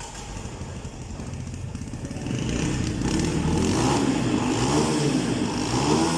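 Motorcycle engine running, growing louder about two seconds in, its pitch rising and falling a couple of times as it is revved.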